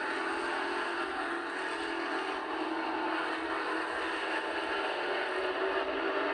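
Engines of Pro Truck race trucks running on track, a steady drone.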